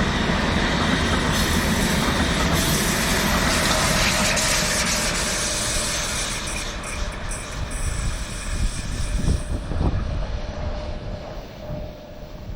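A train running past on the line: a loud, steady rush of wheel and rolling noise that fades from about halfway, with separate low knocks from the wheels in the second half.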